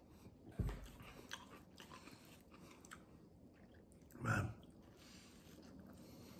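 A man chewing a mouthful of pizza, faint, with soft wet mouth clicks; a dull thump about half a second in and a louder bite about four seconds in.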